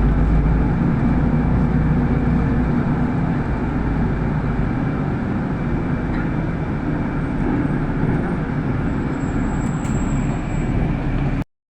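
City bus in motion, heard from inside the passenger cabin: steady engine rumble and road noise, heaviest in the first few seconds. The sound drops out completely for a moment near the end.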